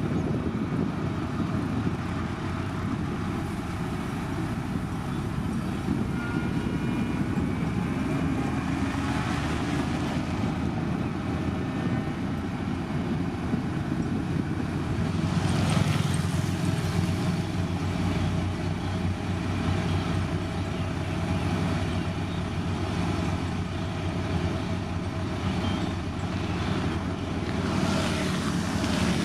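Diesel engine of a SANY STG190C-8S motor grader running steadily while working on gravel.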